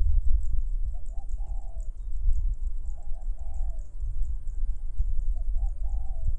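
A dove cooing, three times: each phrase is two quick notes then a longer one, repeating about every two seconds. Underneath is a steady low rumble of wind on the microphone and a faint, rapid high ticking.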